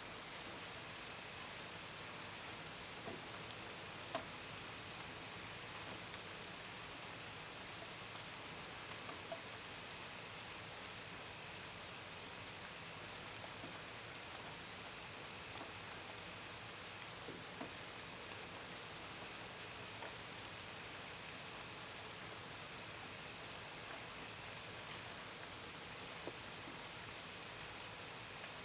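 Steady gentle rain with scattered drops tapping sharply on a window and gutters, under a continuous high trill of crickets.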